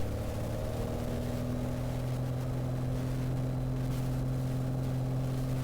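Single-engine Piper Arrow's piston engine and propeller brought up to full takeoff power for the takeoff roll, settling into a steady drone.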